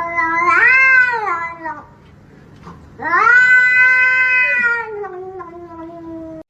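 A cat yowling in two long, drawn-out calls. The first rises in pitch and then falls away about two seconds in. The second starts about three seconds in, holds for around three seconds and slowly sinks in pitch.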